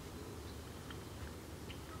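Quiet outdoor background: a low, steady rumble with a couple of faint, short bird chips about a second in and again near the end.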